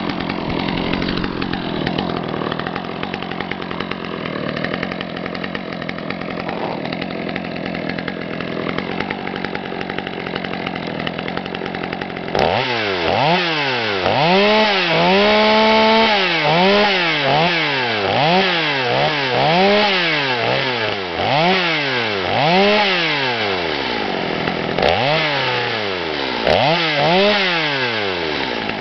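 Small Stihl two-stroke engine running at a steady speed, then revved up and down repeatedly, about once a second, with one longer hold at high revs.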